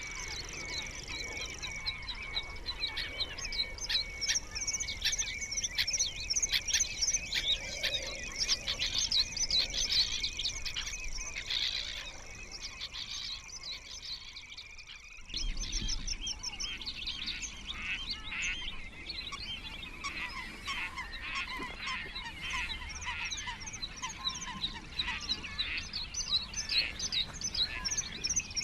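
Many birds calling and singing at once, with dense chirps and some honking calls. The sound changes abruptly about halfway through, after a brief dip.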